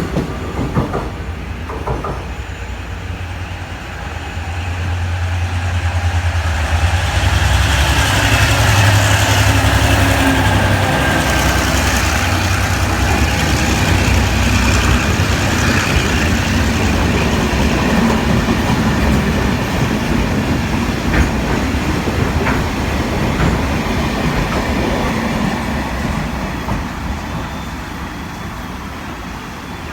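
A diesel-electric freight locomotive's engine drones as it approaches and passes, loudest about a quarter of the way in. It is followed by the rattle and clack of a string of flat wagons over the rails, which fades near the end.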